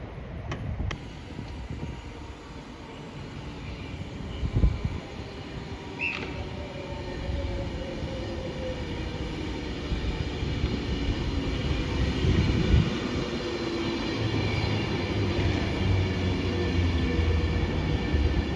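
A train approaching on the line, its running noise growing steadily louder.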